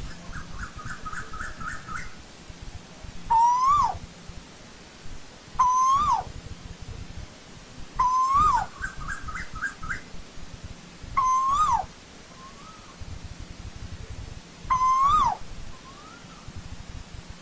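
Asian koel calling: five loud rising calls a few seconds apart, each ending in a quick drop in pitch. Twice a rapid run of short, higher notes comes between them, and faint answering calls follow some of the loud ones.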